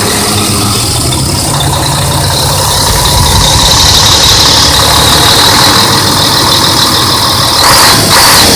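Scania 110 truck's inline-six diesel engine running steadily. Its note steps up about a second and a half in and it grows louder about three seconds in, with a steady high whine over the engine.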